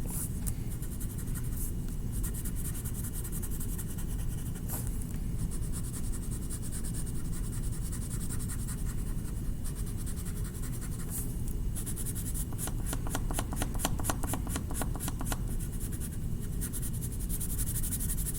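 Colouring tool scratching on paper in back-and-forth strokes, with a stretch of very rapid strokes about two-thirds of the way in.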